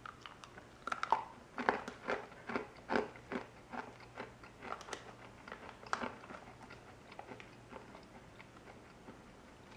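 A person biting and chewing a hard, crunchy V-Dog Wiggle Biscuit, a baked peanut-butter dog treat. The crunches come about twice a second and trail off after about six seconds.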